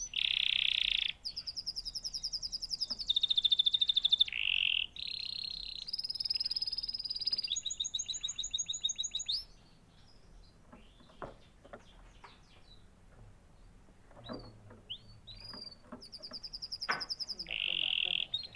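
Domestic canary singing: rapid trilled phrases, each repeating one note many times a second, alternating with buzzy rolling notes. About halfway through the song breaks off into scattered soft chirps, then resumes near the end.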